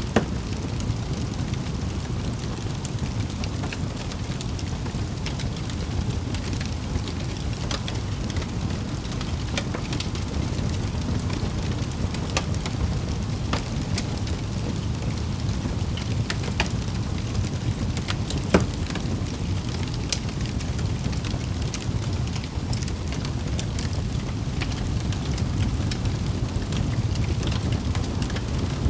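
Wood fire burning in a fireplace: a steady low rumble of the flames with scattered crackles and pops. The two loudest pops come just after the start and about two-thirds of the way through.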